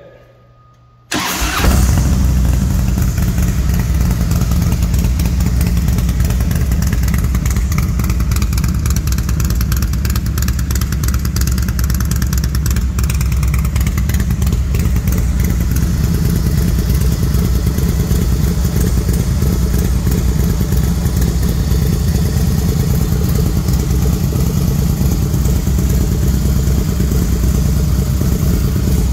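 A 2007 Harley-Davidson CVO Softail Springer's 110 cubic-inch Screaming Eagle V-twin, fitted with a Rinehart exhaust, starts about a second in and then runs steadily.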